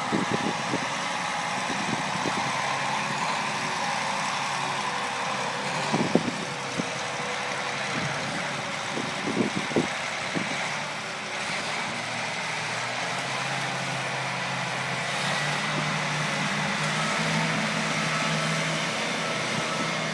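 John Deere 8235R tractor's diesel engine running steadily at idle, with a few sharp knocks about six seconds and ten seconds in.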